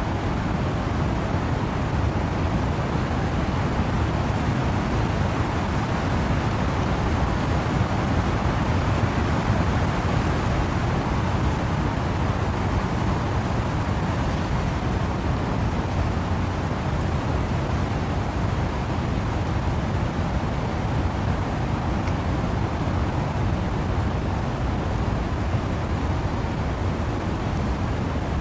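Steady wind and rain through trees, a continuous even rush of noise that swells gently and falls back without any single distinct drops or gusts.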